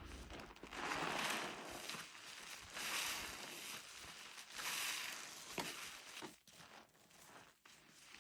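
Wet, soapy sponge squeezed by hand: three long squeezes about two seconds apart, then smaller crackling sounds near the end.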